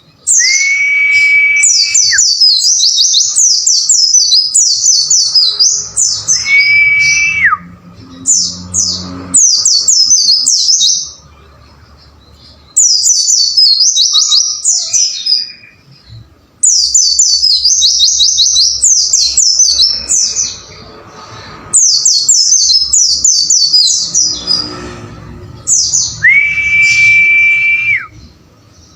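White-eye (pleci) singing a vigorous chattering song: phrases of very fast, high, falling notes with short pauses between them. Three times a long steady whistled note is held for a second or two beneath the chatter, near the start, about a quarter of the way in and near the end.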